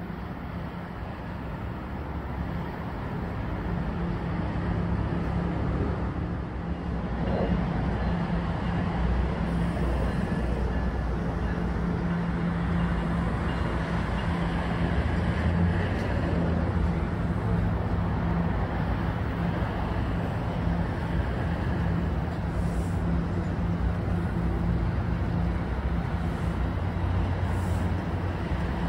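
NJ Transit multilevel push-pull train rolling along the track, a steady low electric hum over wheel and rail rumble. It grows louder over the first eight seconds as the train draws near, then stays level.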